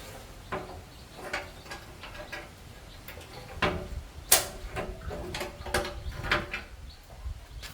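Irregular light metallic clicks and knocks, several with a short ring, as of metal parts and hand tools being handled during a repair. The sharpest knock comes a little past the middle.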